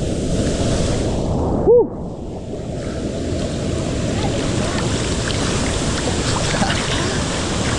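Steady rush of a waterfall pouring into a river pool. About two seconds in there is a short, loud tone that rises and falls.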